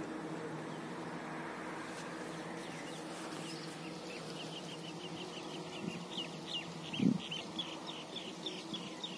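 A steady low hum from an engine or motor fades slowly under water running into a flooded wheat field. From about four seconds in, a bird calls in a rapid run of short high chirps, about four a second. A single thump comes about seven seconds in.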